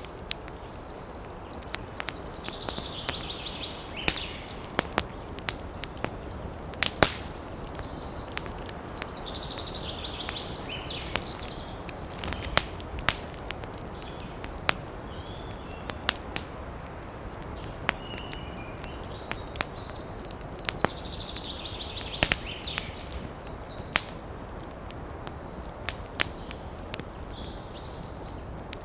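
Campfire crackling, with sharp irregular pops over a steady hiss of wind in the trees. Short high chirps come in every few seconds.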